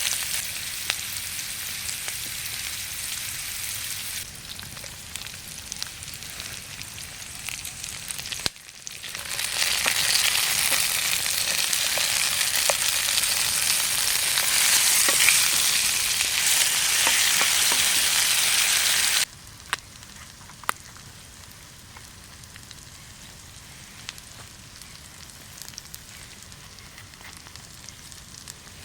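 Food frying in hot oil in a pan: a steady sizzling hiss with scattered pops. It drops a little about four seconds in, jumps louder a few seconds later, then cuts down sharply to a quieter sizzle about two-thirds of the way through.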